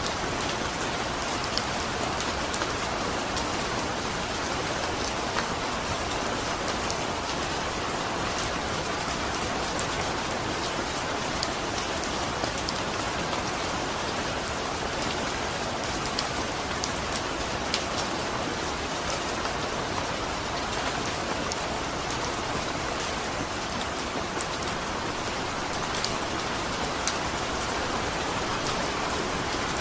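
Steady rain falling, with a dense even hiss and many small drops ticking on a surface.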